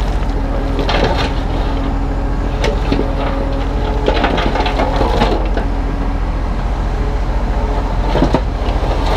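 Kubota U35-3 mini excavator running steadily, with pitched tones that come and go as the arm works and several scraping knocks and crunches of the bucket on the ground, the busiest stretch about four to five seconds in.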